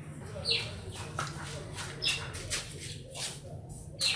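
Small birds chirping in short, high calls, several times, over a steady low hum.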